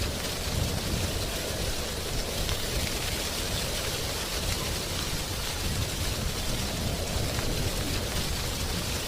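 Wind blowing through dry tree leaves: a steady rustling hiss over a low rumble, swelling slightly now and then.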